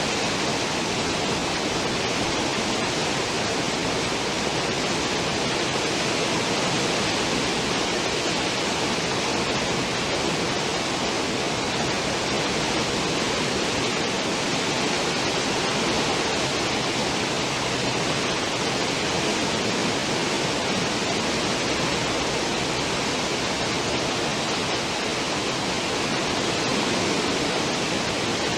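Cruise ship's wake churning behind the stern: a steady, even rush of foaming water.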